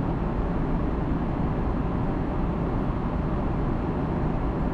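Steady cabin noise of an Airbus A330-200 airliner in flight: an even, low rumble of engines and airflow.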